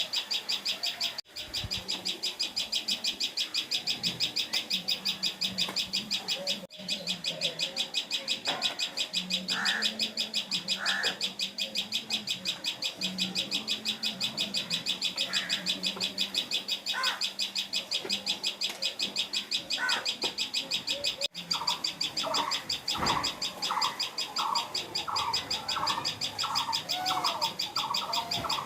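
Common tailorbird calling. Short chirps are scattered at first, and about two-thirds of the way in it settles into a quick, even series of repeated notes, about two to three a second. Throughout, a continuous high, fast buzzing trill sits underneath, with a low steady hum.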